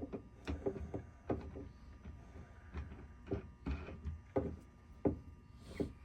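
Irregular light knocks and clicks, roughly one or two a second, of hands handling parts and tools at the Racor fuel filter housings.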